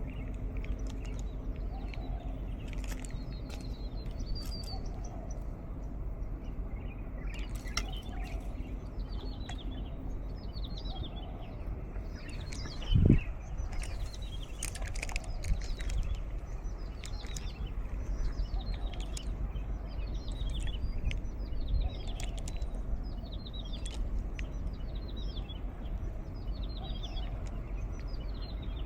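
Wild birds singing, with short falling high notes repeated over and over, over a steady low rumble of breeze. There is one dull thump about 13 seconds in.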